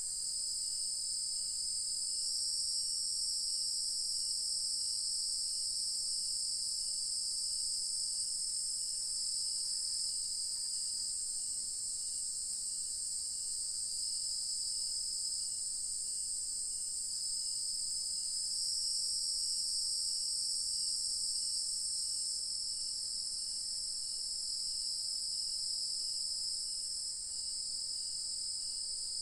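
Nightfall chorus of insects, with crickets and cicadas among them, as a steady high-pitched shrill in several overlapping layers that swell and fade in turn. A faint lower call repeats about twice a second underneath.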